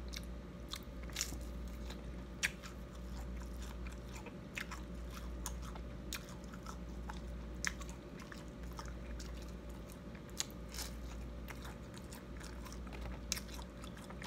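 Close-up chewing of crispy breaded fried fish: irregular sharp crunches of the breading as it is bitten and chewed, over a steady low hum.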